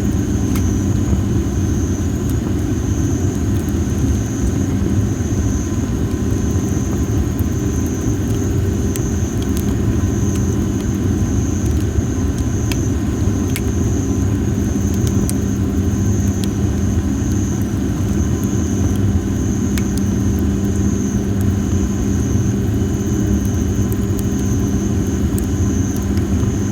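Campfire of dry masaki (Japanese spindle) firewood crackling, with scattered sharp pops over a steady low rumble. A steady high-pitched trill sounds throughout.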